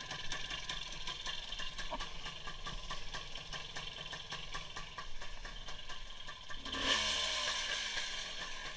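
WSK 175 motorcycle's single-cylinder two-stroke engine idling with a light clatter. About seven seconds in comes a brief rush of noise, and the engine note then falls in pitch.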